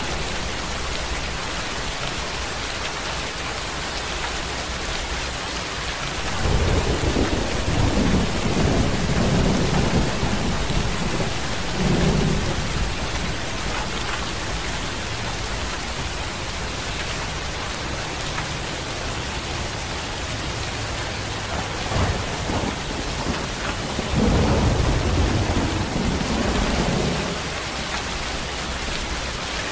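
Steady heavy rain falling, with rolling thunder: a long low rumble about six seconds in that lasts about six seconds, a short one later, and another rumble of about three seconds near the end.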